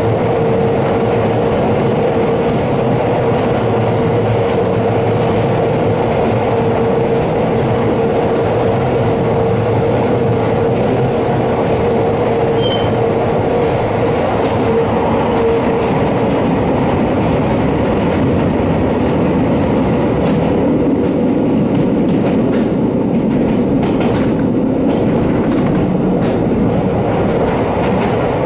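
A Kobe Electric Railway electric train climbing a steep grade, heard from inside the car: loud, steady running noise from wheels and motors under a humming motor tone that drops to a lower pitch about halfway through. A thin high squeal comes on and off in the first half, and a few sharp clicks sound near the end.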